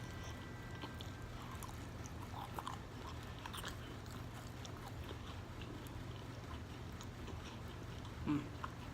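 A person eating stewed chicken by hand close to the microphone: small chewing and mouth clicks and smacks over a steady low hum, with one louder short knock about eight seconds in.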